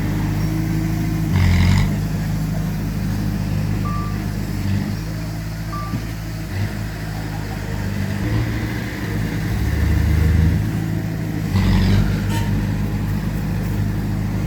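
Heavy diesel machinery working, with the engine note shifting up and down. Two short high beeps come about four and six seconds in, and a brief hissing burst comes near the start and again near the end.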